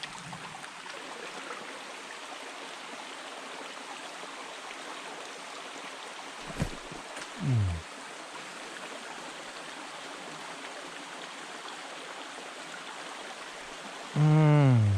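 Steady rush and babble of a small mountain trout stream's running water. A short falling vocal sound comes about seven and a half seconds in, and a louder voice comes near the end.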